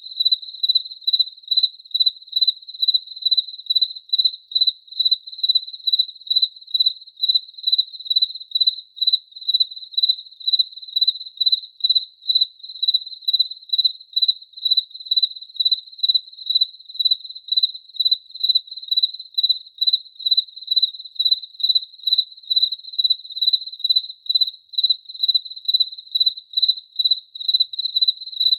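A cricket chirping in a steady, even rhythm, about two high-pitched chirps a second.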